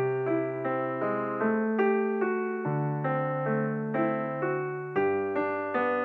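Background piano music: an electric piano playing a gentle run of notes, about three a second, over held low bass notes.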